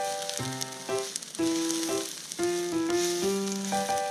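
Yakisoba noodles and vegetables sizzling on a BBQ sheet over a grill as they are stirred with chopsticks, a steady crackling hiss. Background music with a melody of short notes plays over it.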